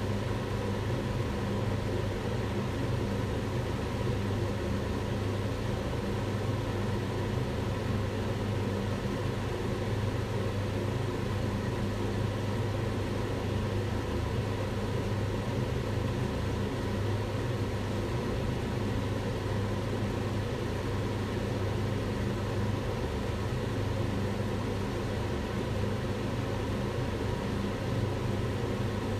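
Kitchen range hood fan running steadily: an even rush of air with a constant low hum under it.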